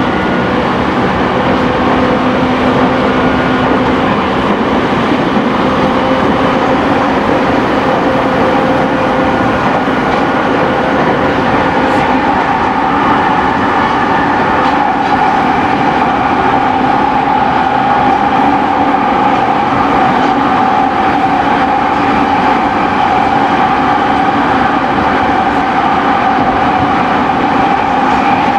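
Running sound inside a JR East E217-series electric train's motor car at speed: steady, loud wheel-and-rail noise with a low hum under the floor. A higher steady tone comes in about twelve seconds in and holds.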